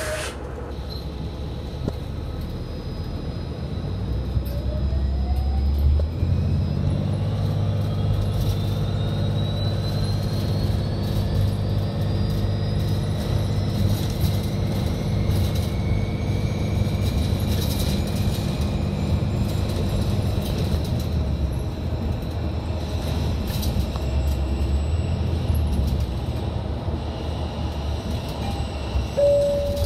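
Long Island Rail Road M3 electric train running by, a steady low rumble with a whine that rises slowly in pitch for several seconds as it gathers speed. A short tone sounds near the end.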